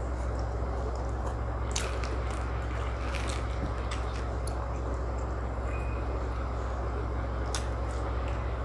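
A person eating close to the microphone: chewing and a few sharp wet mouth clicks, over a steady low hum.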